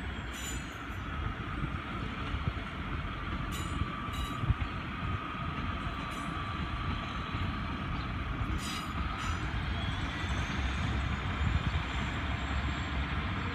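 Diesel passenger train running past at a distance on the St Ives branch line. It makes a steady rumble, with a faint drawn-out whine through the middle.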